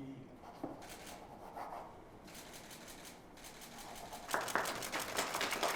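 Faint rustling and scattered clicks, then a crowd starting to applaud about four seconds in, the clapping growing louder.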